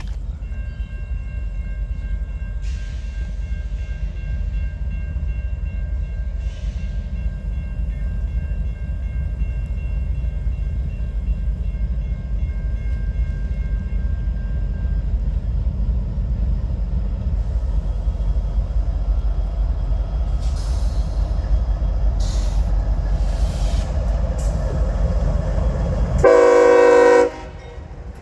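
A CSX freight train rumbling steadily, with faint high steady tones during the first half. Near the end comes one loud air-horn blast lasting about a second.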